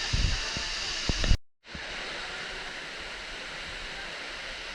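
Steady rush of a tall, wide waterfall falling into its pool. A few low thumps come in the first second and a half, then the sound cuts out briefly before the rush returns.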